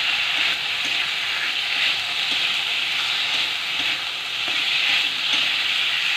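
Potato pieces frying in oil and masala in a steel kadai, sizzling steadily with a hiss while a metal spatula stirs and scrapes them around the pan.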